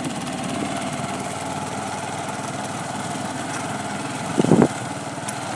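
Small vehicle engine running steadily while on the move, with a brief loud knock about four and a half seconds in.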